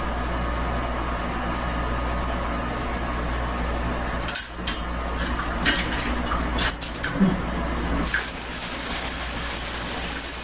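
A steady low machine hum that stops about four seconds in, then a few clicks and knocks. From about eight seconds, a kitchen tap runs water into the sink, a steady hiss, as dough is washed off the hands.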